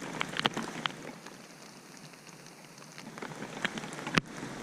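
Light, irregular water splashes and drips with scattered sharp ticks, quieter in the middle, and one sharper knock about four seconds in.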